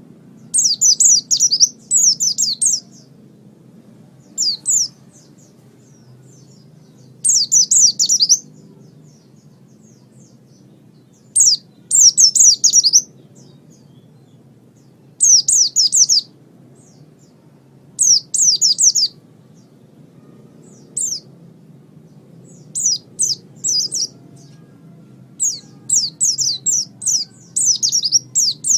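White-eye (pleci) singing: repeated short phrases of rapid, high, falling chirps, each about a second long, with gaps of a few seconds between them. A faint low hum lies underneath.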